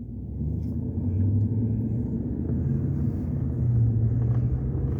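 Car engine and road noise as the vehicle drives on, getting louder about half a second in and again past the middle, with the engine note stepping up in pitch as it picks up speed.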